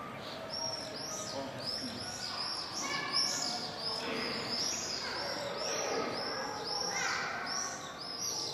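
Small birds chirping over and over, a short high arched note repeated two or three times a second.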